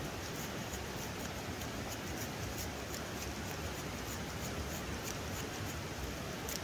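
Steady rushing of river water, with faint, rapid, irregular ticking or crackling in the highest range.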